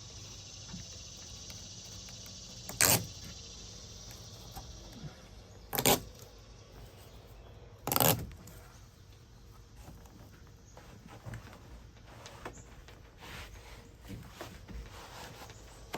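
Handling noises from fitting a Bedrug carpet sidewall panel into a pickup bed: three short, loud thumps or scrapes about three seconds apart, then faint rustling and clicks.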